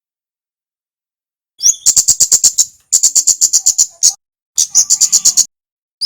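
Male kemade flowerpecker singing: after a second and a half of silence, four quick runs of sharp, high ticking notes, about eight a second, each run opening with a short upswept note.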